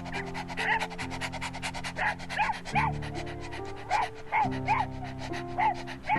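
A dog giving short, rising-and-falling whining yelps, in clusters of two or three, over background music with a steady beat.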